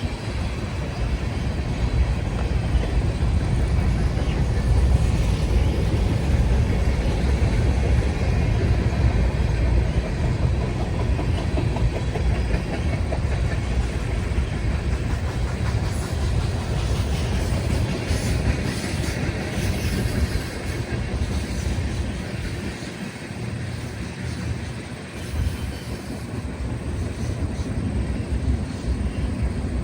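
Train rolling past: a steady rumble of wheels on rails that eases briefly about three-quarters of the way through.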